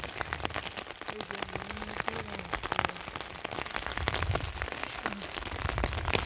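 Rain falling steadily, with many single drops ticking sharply close to the microphone.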